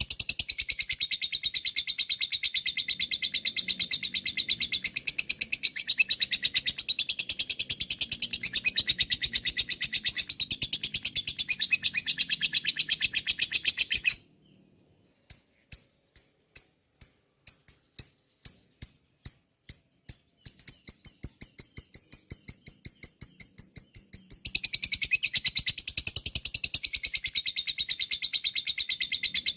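Lovebird singing 'ngekek': a long, rapid chattering trill of sharp high notes, many to the second. About fourteen seconds in it stops for a second, comes back as separate ticks that speed up, and builds back into the full continuous trill.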